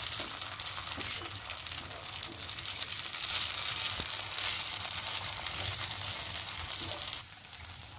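Rice and bottle-gourd batter sizzling and crackling in hot mustard oil on a tawa, a steady frying hiss that eases a little near the end.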